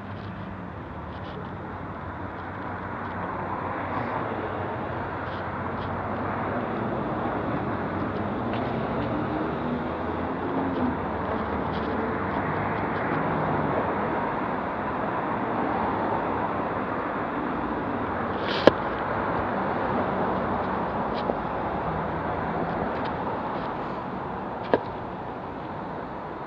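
Steady rushing noise of riding a bicycle: wind over the wrist-mounted camera's microphone and the tyres on the road, growing a little through the middle and easing near the end. A couple of sharp clicks come late on.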